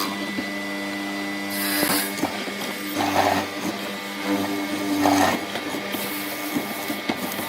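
A small power tool running steadily, getting louder twice, about three seconds in and again about five seconds in.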